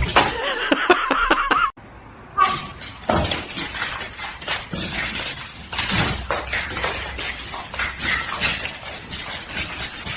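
Clattering and clinking: a rapid, irregular series of knocks and clicks, like hard objects or dishes being knocked about. It starts a couple of seconds in, after a short wavering pitched sound that cuts off abruptly.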